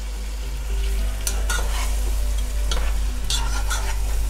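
Chicken frying in a pan of oil with browned onion-and-tomato masala, sizzling, while a spoon stirs it with several sharp scrapes against the pan from about a second in.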